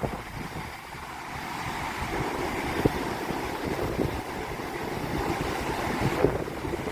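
Sea surf washing onto the beach, the rush of water growing louder about two seconds in, with wind buffeting the microphone in gusts and short thumps.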